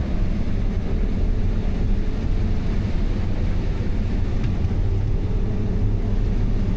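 Combine harvester running steadily while harvesting corn, a constant engine and machinery drone with a low hum.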